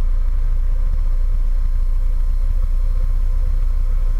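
Steady low drone of engine and airflow noise inside a light airplane's cockpit, with the engine throttled back for a practice engine-out approach.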